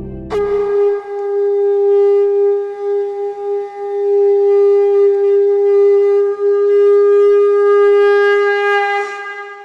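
One long blast on a ritual horn, starting sharply and held at one steady pitch for about nine seconds before it fades away.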